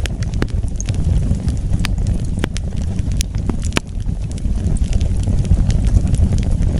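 Wood fire burning, with a steady low rumble of flames and irregular sharp crackles and pops from the burning wood, a few of them standing out between about 2 and 4 seconds in.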